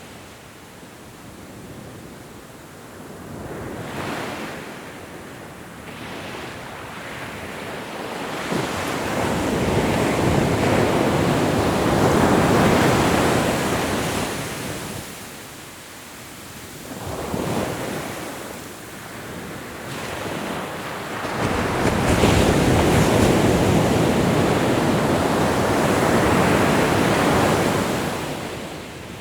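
Ocean surf washing ashore, the rush of water swelling and fading in long surges: two big waves, about nine seconds in and again past twenty seconds, with a smaller one between.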